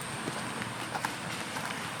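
Steady rain hiss with scattered sharp taps and drips over it.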